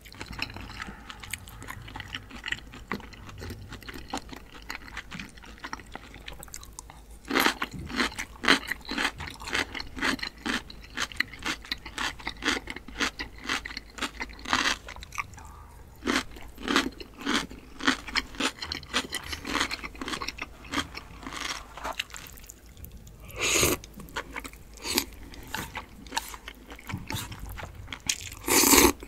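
Close-miked chewing with rapid crisp crunches through the middle. Near the end comes a loud slurp of spicy cold noodles.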